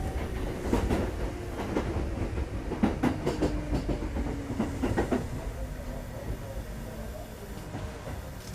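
Kintetsu 2430 series electric train braking to a stop: wheels clacking over rail joints, with a tone that falls in pitch as the train slows, the sound fading toward the end.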